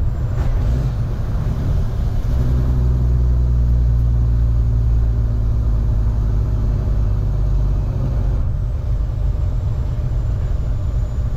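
Tractor-trailer's diesel engine running on the road, pulling a loaded 55,000-pound refrigerated trailer: a steady low rumble that swells for a few seconds about two seconds in.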